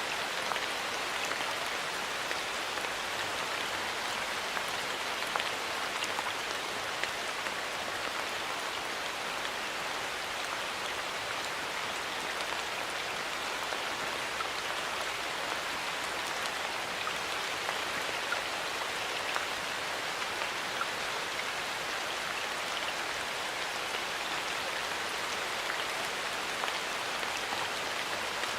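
Steady rain falling in a forest, an even hiss with many small drops pattering and ticking throughout.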